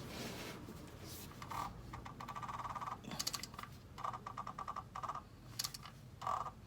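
Ratchet wrench clicking in several short runs of rapid clicks while working the cap wrench on the oil filter housing cap to loosen it.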